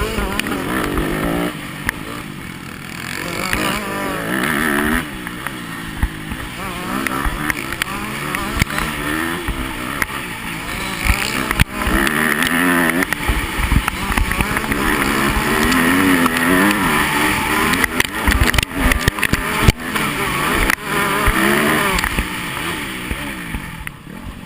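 Yamaha motocross bike's engine revving hard, its pitch rising and falling again and again as it is ridden through a race, with frequent sharp knocks and clatter.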